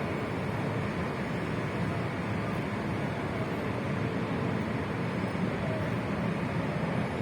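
Steady vehicle and traffic rumble, even throughout with no distinct events.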